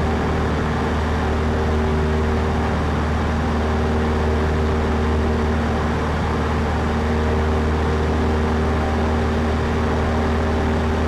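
Cessna 152's four-cylinder Lycoming engine and propeller droning steadily in cruise, heard from inside the cockpit.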